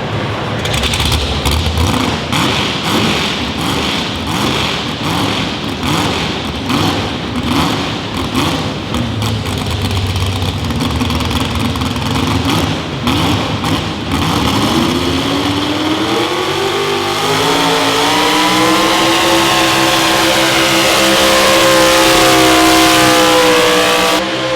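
Competition pulling vehicle's engine running rough and uneven with sharp cracks, then, about fifteen seconds in, revving up steadily and holding at high revs.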